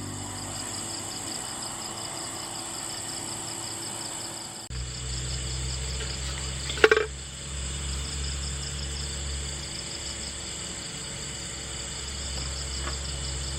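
Insects chirring steadily in a fast, high, pulsing trill. A low steady hum comes in abruptly about a third of the way through, and there is one short clatter about halfway.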